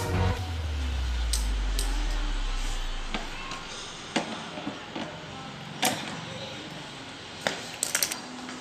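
A deep low boom that fades out over about three seconds, followed by a few scattered light clicks and knocks.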